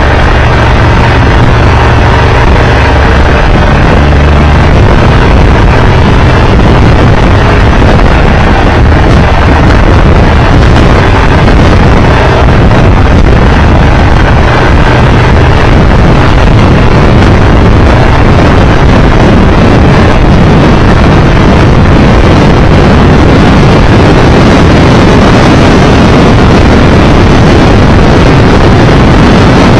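Triumph Tiger Explorer 1200 motorcycle riding at speed: loud, steady wind rushing over the microphone with the three-cylinder engine running underneath.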